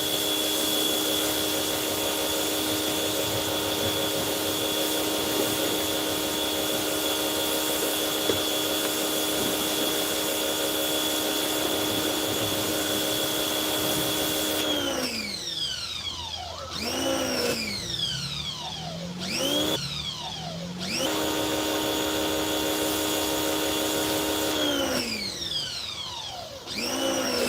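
Harbor Freight pressure washer's motor and pump running steadily with a spray hiss. About halfway through the motor winds down, spins up and down several times in short rising-and-falling whines, settles into steady running again, then winds down near the end as the trigger is released and re-pulled.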